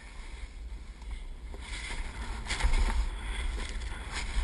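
Wind buffeting the microphone with a steady low rumble, and swishing hisses that grow louder about halfway in.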